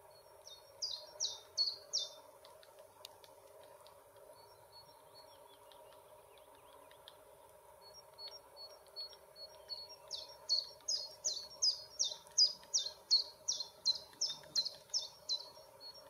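A bird singing a series of evenly repeated high notes at about three to four a second: a short run of about five notes near the start, then a longer run of about eighteen notes in the second half.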